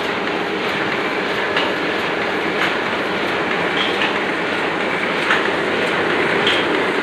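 Oliver offset printing press running steadily: a continuous mechanical clatter with a faint steady hum and scattered light clicks.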